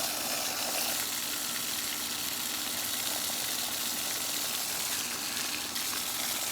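Steady stream of running water, rinsing out a vacuum cleaner's crevice tool.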